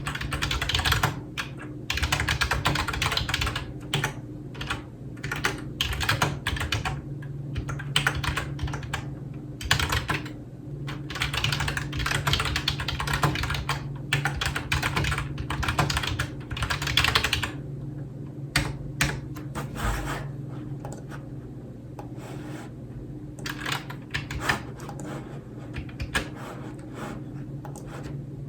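Typing on a computer keyboard: fast runs of key clicks for most of the first two-thirds, then slower, separate keystrokes with short gaps, over a low steady hum.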